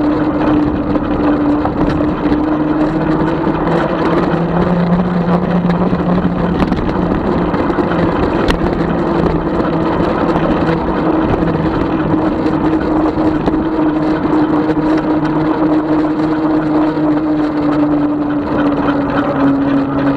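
36-volt electric bike's motor whining steadily under a wash of road and wind noise while riding. The whine rises slightly in pitch a few seconds in and eases back down near the end, following the speed.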